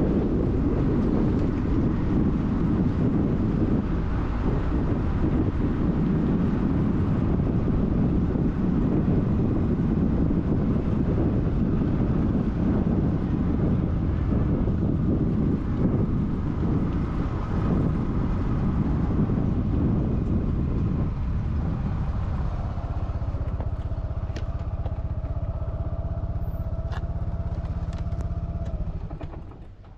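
Low wind rumble buffeting the microphone. About two-thirds of the way in it gives way to a steady motor hum with a held tone, which cuts off shortly before the end.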